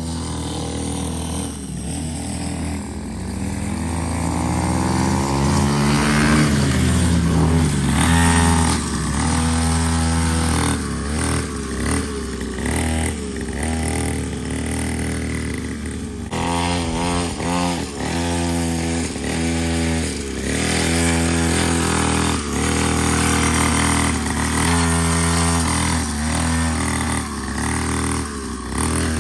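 Dirt bike engine running while being ridden, its pitch rising and falling again and again as the throttle opens and closes.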